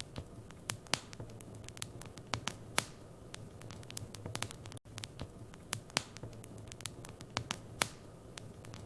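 Fireplace wood fire crackling: irregular sharp pops and snaps over a steady low hum, with a momentary dropout about halfway through.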